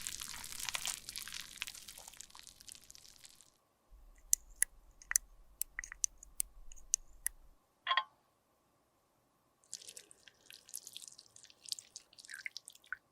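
Close-up handling of cosmetics and tools: a crackly scraping or crushing for the first few seconds, then a string of sharp clicks and taps, a brief squeak about eight seconds in, and more crackly scraping near the end.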